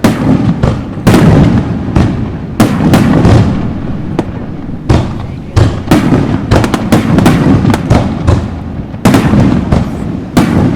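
Aerial fireworks bursting overhead in a rapid barrage: many sharp bangs, some in quick clusters, over a continuous booming rumble and echo.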